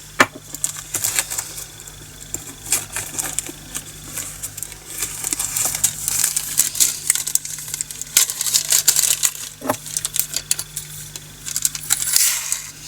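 Tiny plastic diamond-painting drills clicking and rattling as they are tipped and poured into small plastic storage containers: a long run of fine, irregular ticks.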